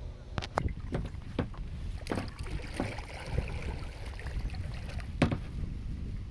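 A small boat on the water: irregular knocks and clunks against the hull, a brief splash of water about two seconds in, over a low rumble of wind and water.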